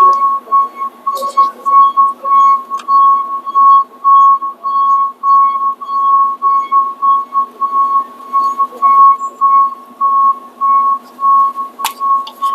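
Repeated high electronic beeping, one steady pitch about three beeps every two seconds, with a few sharp clicks of tools.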